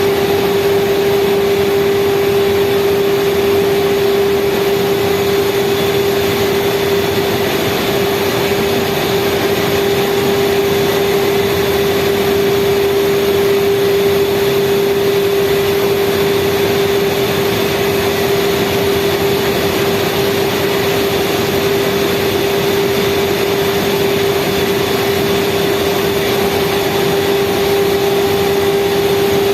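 Speedboat engines running steadily at speed, one unchanging high engine note over a constant rush of noise.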